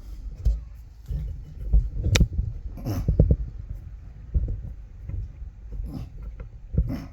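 Irregular knocks, clicks and rubbing noises from parts or tools being handled, over a low rumble.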